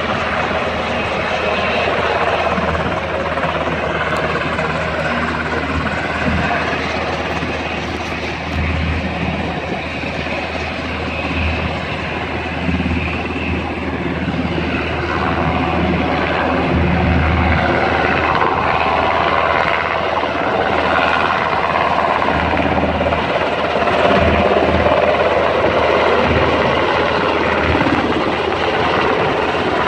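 Military helicopter's turbine engine and rotor running loud and steady during take-off, growing somewhat louder in the second half.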